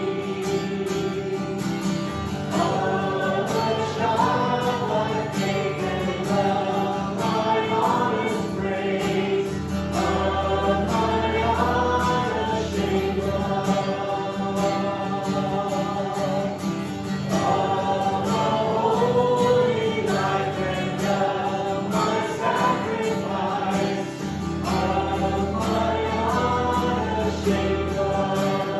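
Music: a group of voices singing a song in phrases over guitar, with long held low bass notes.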